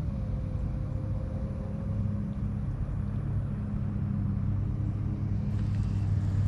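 Steady low motor hum with a constant pitch and a low rumble beneath it.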